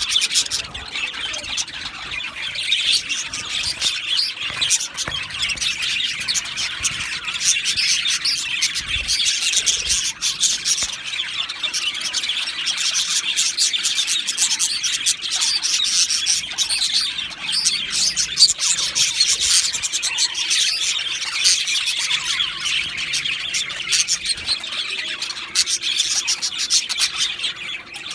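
Male budgerigars chirping continuously, a dense stream of quick high chirps and clicks.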